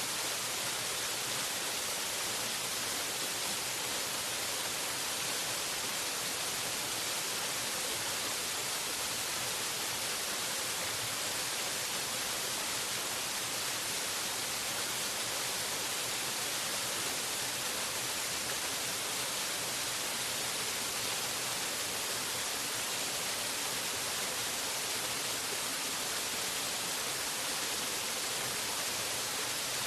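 Waterfall: a steady, unbroken rush of falling water, mostly high hiss.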